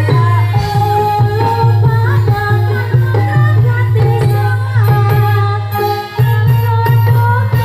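Live Javanese dawangan accompaniment music: hand drums beating steadily under a melody that slides in pitch, with a singing voice, and a brief drop in the drumming about six seconds in.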